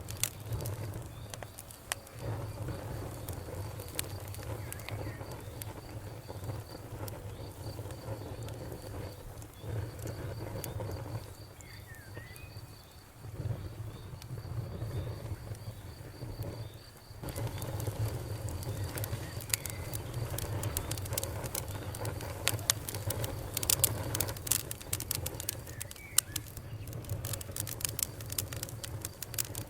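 Wood fire burning in a fireplace: a steady low rumble of flames with irregular crackles and pops, which grow denser and sharper a little past halfway. A faint high pulsing chirp runs under the fire through the first half.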